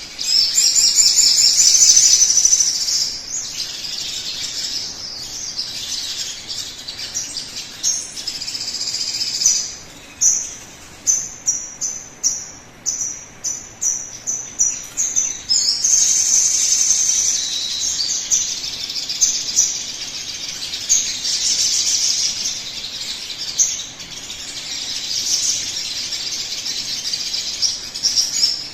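Sogon bird song used as a lure call to set a caged bird singing: a fast, high chattering song. In the middle there is a run of about a dozen short, sharp notes repeated a little over two a second, before the chatter resumes.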